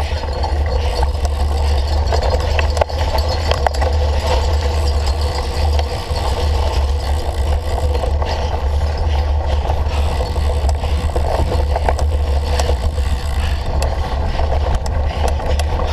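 Wind buffeting the microphone in a steady low rumble as a cyclocross bike is ridden at race pace, with scattered clicks and rattles from the bike over rough ground.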